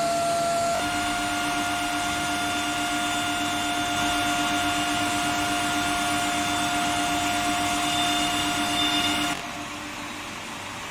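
Heat treatment furnace equipment running: a steady whine of several held tones over a hiss. The whine cuts off about nine seconds in, leaving a quieter hiss.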